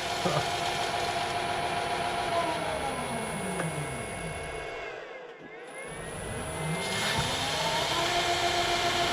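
Metal lathe's electric motor winding down with a falling whine to a near stop about five seconds in, then starting again and running back up to a steady speed: the machine was found running in reverse and is stopped and restarted.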